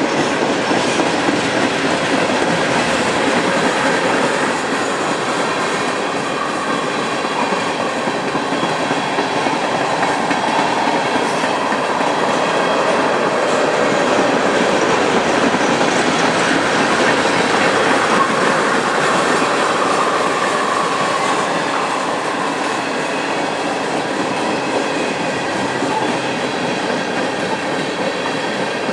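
Loaded ethanol tank cars of a long freight train rolling past close by: a steady rumble and clatter of wheels on the rails, with a faint wavering whine from the wheels through the middle.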